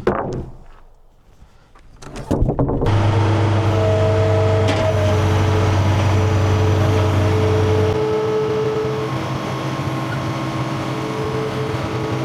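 A sharp knock, then a small gasoline engine on a manual bandsaw sawmill cranks and catches about two seconds in and runs steadily with a fixed-pitch hum and whine. Its deep drone drops away about eight seconds in, leaving a lighter running note.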